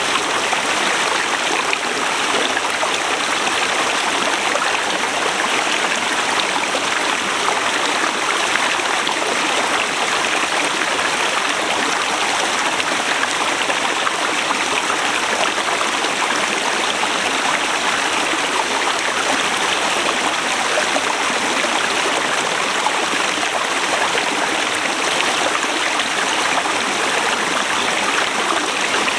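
Forest river flowing: a steady rushing of water over rocks, with no change in level.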